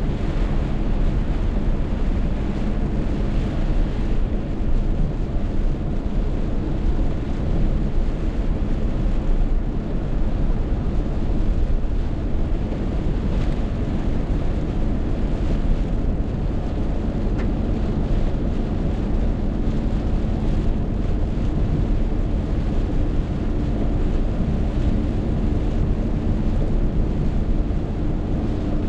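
Storm wind buffeting the microphone in a heavy rainstorm, a steady deep rumble with no break.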